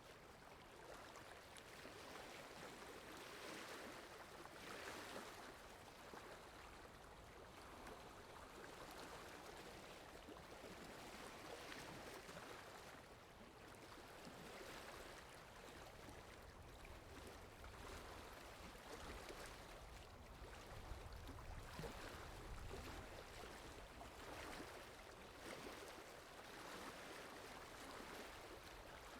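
Ocean waves washing in, faint, swelling and falling back every few seconds, with a low rumble under the surf for a few seconds past the middle.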